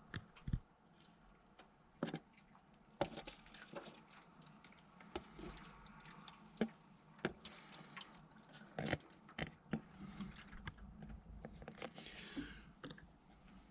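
Faint water dripping and splashing as a jug of water is poured into the bottom of a Viessmann boiler's heat exchanger to flush out loosened deposits, with scattered light knocks and clicks.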